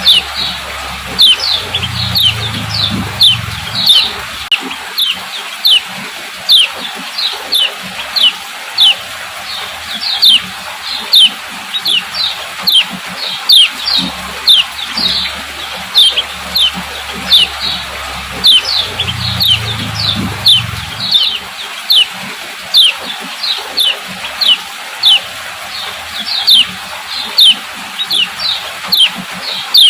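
Female lemon-bellied white-eye giving its sharp "ciak ciak" call: short, high notes, each dropping in pitch, repeated about two a second.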